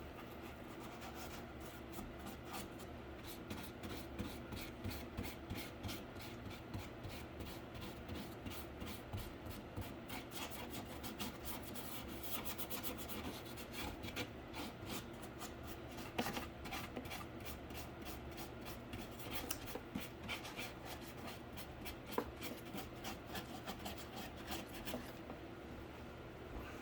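Paint being brushed onto a cardboard case: a steady run of short, quiet, scratchy brush strokes rubbing across the cardboard, several a second.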